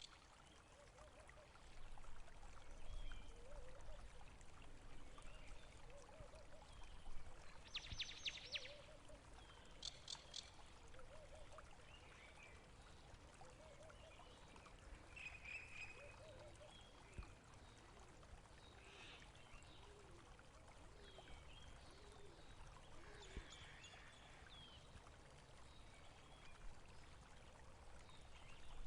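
Faint running water, a small stream flowing steadily, with scattered short animal calls over it and a brief cluster of sharper notes about eight to ten seconds in.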